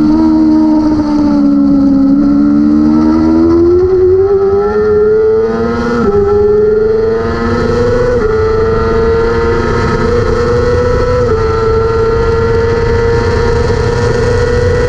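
600cc superbike engine at racing revs: the engine note dips right at the start, then climbs steadily for several seconds with brief drops at the gear changes, and holds high and nearly level, with one more short dip about two-thirds of the way in. A steady low rushing noise runs underneath.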